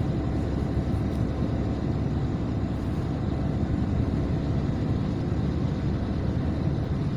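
Steady low road noise of a car driving along a highway, the tyres and engine heard from inside the cabin.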